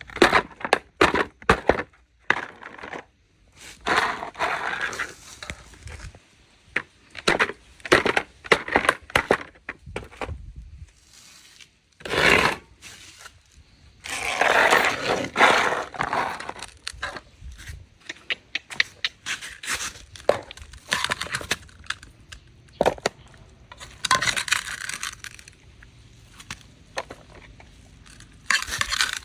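Dogs eating: irregular crunching and clicking as they chew, with a few louder scraping spells lasting a second or two.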